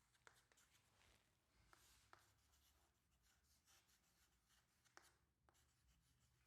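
Near silence, with a few faint scratching strokes of writing.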